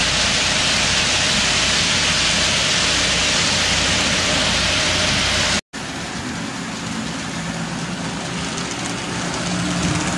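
HO-scale model freight train running on track: a steady rolling clatter of many small wheels. A little over halfway through the sound cuts out abruptly for an instant, then returns quieter, with a faint motor hum rising toward the end.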